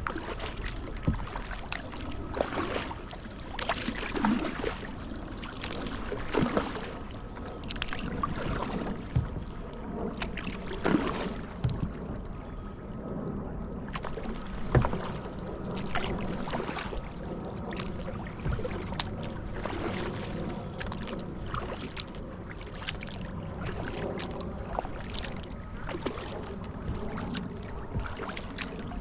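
Kayak paddling: the paddle blades dip and pull through shallow water in a steady, irregular series of splashes, with water dripping off the blades between strokes.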